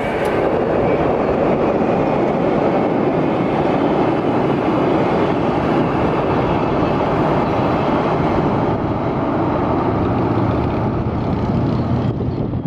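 Train running past close by, a steady loud rush of noise.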